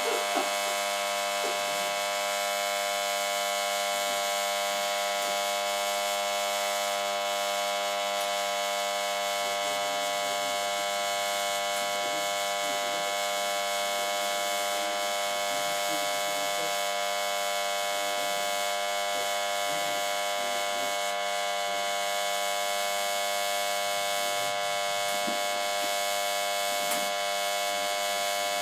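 Newly assembled engine running steadily at constant speed on its first start after the rebuild: an even, unchanging mechanical hum with a high whine.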